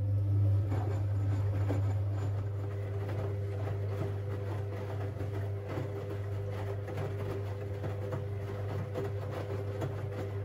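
Siemens Siwamat 6143 washing machine's drain pump running with a steady low hum and gurgling water, stopping abruptly near the end.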